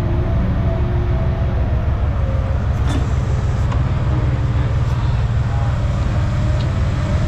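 Vehicle engine running steadily with a low drone and a faint wavering whine over it; a couple of light knocks about three and five seconds in.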